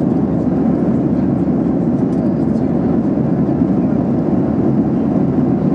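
Steady cabin noise inside a Boeing 737-800 in flight: an even, low rumble of the CFM56-7B engines and airflow over the fuselage.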